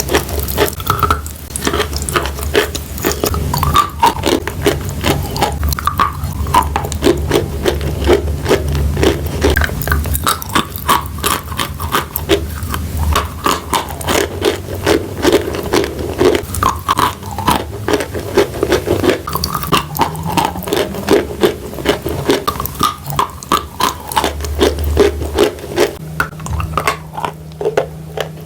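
Chalk mixed with wet clay paste being crushed, a dense run of crunching and crackling that thins out near the end.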